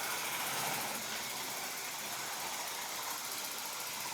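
Small electric motor of a battery-powered toy locomotive running steadily at full power, with the whir of its gears and wheels as it pushes coaches backwards along the track.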